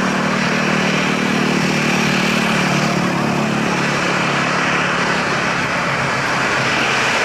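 Boeing 737-800 jet engines running at takeoff power: a steady loud roar, with a low hum that fades out about halfway through.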